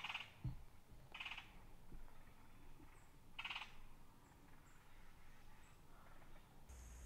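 Three faint, short, raspy bird calls: one at the start, one about a second in and one about three and a half seconds in. A low thump comes about half a second in, and a few tiny high chirps are heard.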